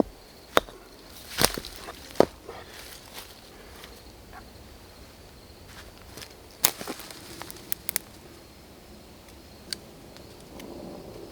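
Footsteps and the scattered sharp snaps and cracks of dry twigs and sticks being gathered and broken on the forest floor, a few loud single snaps spaced irregularly with quieter rustling between.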